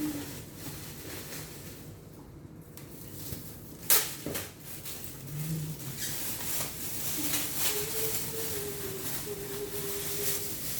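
Kitchen handling sounds during food preparation: a single sharp knock about four seconds in, then light clicks and rustles. Soft humming runs through the second half.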